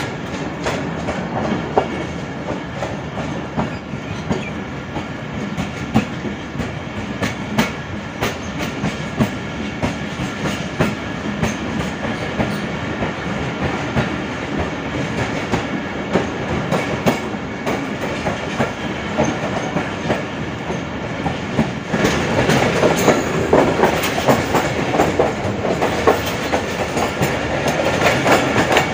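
Passenger train coaches running on the rails, wheels clicking over rail joints above a steady track noise, heard from an open coach window. The noise grows louder a little after two-thirds of the way through.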